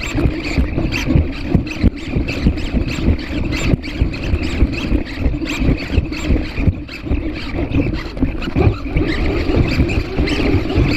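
PhantomX hexapod robot walking: its servos whine steadily, with many irregular ticks and knocks from the legs and feet.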